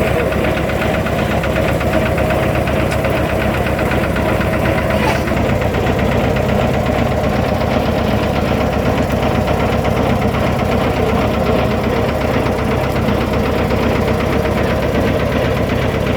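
Fishing boat's engine running steadily with a fast, even chugging pulse.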